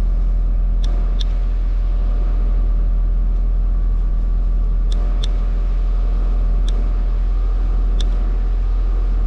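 2002 Mitsubishi Eclipse's 2.4 L four-cylinder engine running steadily with a constant low drone, newly restarted after a fuel pump replacement. A handful of short sharp clicks sound over it.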